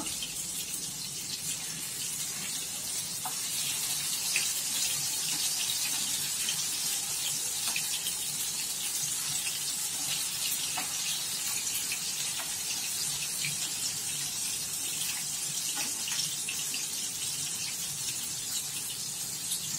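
Marinated fish pieces shallow-frying in hot oil in a nonstick pan: a steady sizzle with scattered small crackles and pops.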